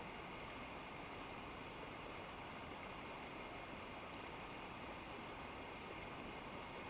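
Steady rushing of a cold mountain river running over rocks, an even hiss with no breaks.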